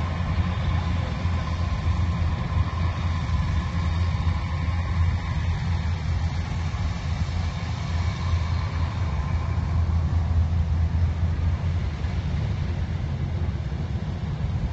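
Engine of a farm machine running steadily, a low continuous hum without changes in speed.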